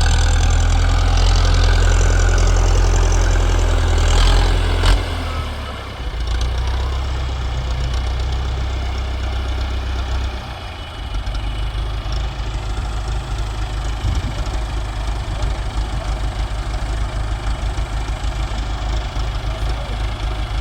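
Tractor diesel engine running hard for about five seconds, with a sharp knock near the end of that stretch. It eases off, runs steady again, then drops to a throbbing idle about ten seconds in.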